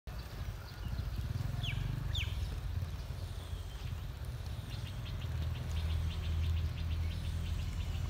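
Outdoor ambience with a steady low rumble underneath. Two quick bird chirps falling in pitch come about two seconds in, then a fast run of high ticking bird calls in the last three seconds.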